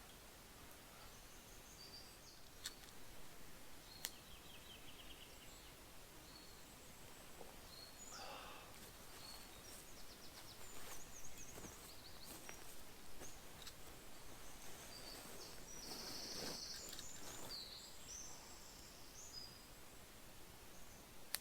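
Quiet forest ambience with small birds calling, short high chirps and trills scattered throughout. A few sharp clicks and some brief rustling are also heard.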